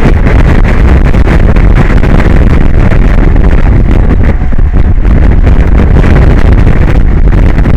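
Strong wind buffeting the microphone: a loud, steady, distorted rumble with no pitch to it.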